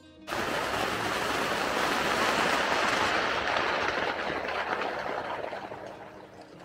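Heavy rain pouring onto a Mobi Garden tent, heard from inside: a dense, even hiss of drops on the fabric that starts suddenly and fades over the last couple of seconds.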